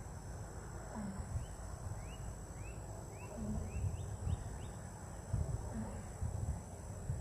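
Outdoor ambience: a steady high insect drone, a quick series of short rising bird chirps in the first half, and a low short call that repeats about every two seconds. Gusts of wind rumble on the microphone throughout.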